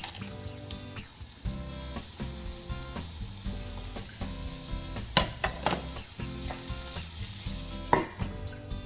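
Flour-breaded liver frying in butter in a skillet, sizzling steadily. Sharp metal clinks of pan and lid come about five seconds in, and a louder clank just before the end as the lid is set on the pan.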